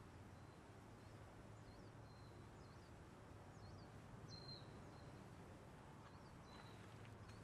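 Near-silent garden ambience with a low steady hum and faint, scattered high bird chirps: short calls every second or so, one slightly longer falling call about halfway through.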